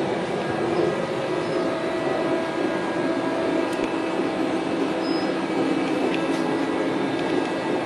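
Steady running noise inside a moving passenger train carriage: an even rumble and hum with no clear change.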